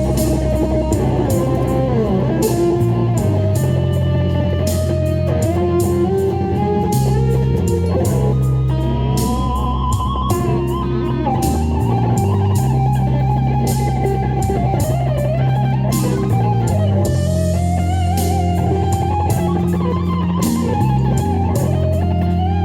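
A guitar plays a lead melody with bends and slides over a backing track of bass and drums.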